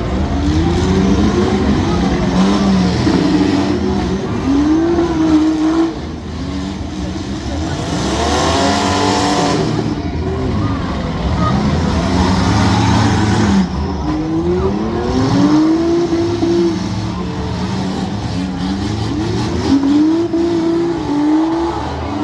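Compact demolition-derby car engines revving hard, their pitch sweeping up and down over and over as the cars accelerate and back off.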